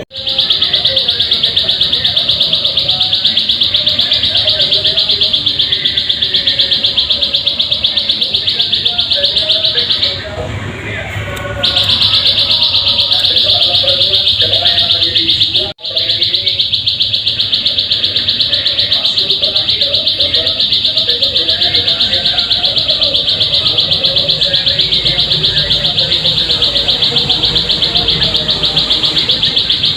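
Ciblek sawah (plain prinia) song: a loud, continuous, very fast high trill of rapidly repeated notes. It pauses for about a second and a half a little past a third of the way in, then breaks off for a moment again a few seconds later.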